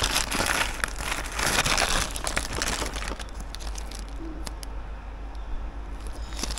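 Packaging being crinkled and rustled by hand while being torn open to unpack a cable, busiest for the first half and then thinning out to a few light crackles and clicks.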